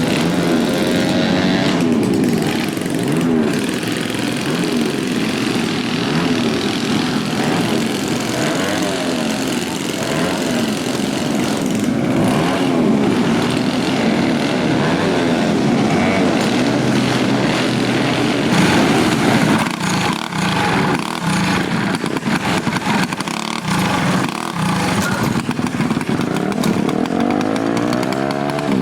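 Several vintage minibikes' small single-cylinder engines running at once, revved up and down over one another.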